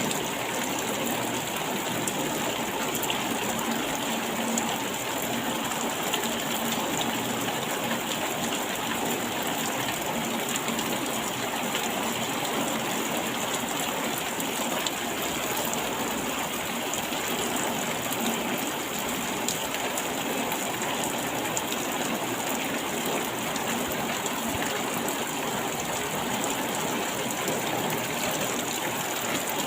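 Steady rain falling: an even, unbroken hiss dotted with many fine drop ticks, with no change in strength.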